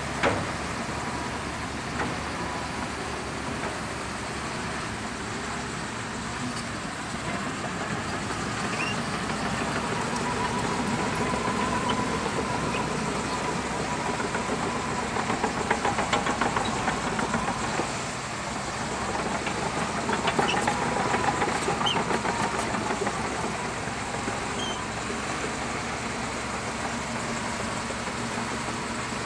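Shantui DH17C2 bulldozer's diesel engine running steadily, growing louder in a few stretches through the middle as the machine works, with a faint whine and a rapid clatter in the louder stretches.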